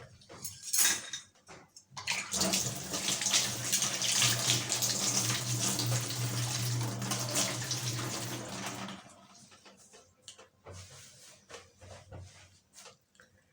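Water running hard from a tap for about seven seconds, with a steady low hum under the rush, then shutting off; light clinks and handling noises follow.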